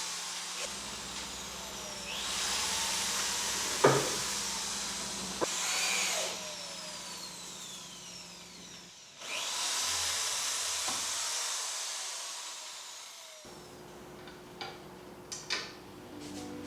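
An electric motor tool runs in several bursts of a few seconds each, its whine falling as each burst winds down. A few sharp knocks come in between, including one loud knock about four seconds in and several near the end.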